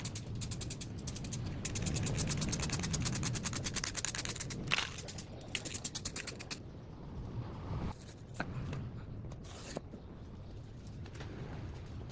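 Rapid, rhythmic scraping strokes against a hard surface, like hand sanding or filing, which stop about six and a half seconds in. A few single clicks and knocks follow.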